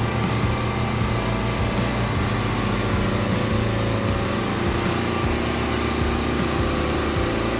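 John Deere 70 skid steer's engine running steadily, its pitch shifting slightly now and then.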